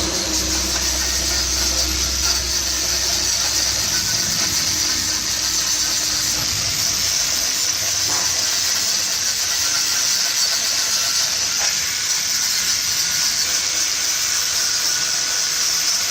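A steady, loud hiss, strongest in the high range, with a low hum underneath that fades out about four seconds in.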